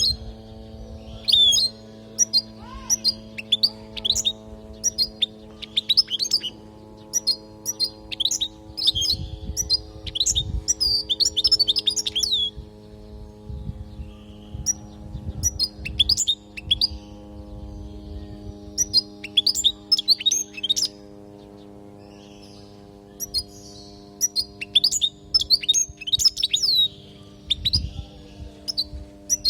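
European goldfinch singing: bursts of rapid twittering chirps and trills with short pauses between phrases, over a steady low hum.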